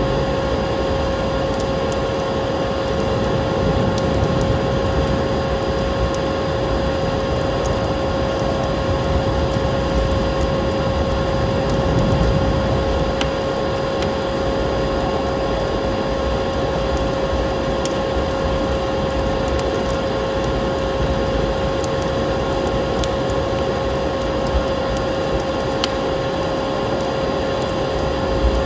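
Vacuum cleaner running steadily, a constant drone with a steady whine over a rushing noise. A wood fire crackles through it with scattered sharp pops.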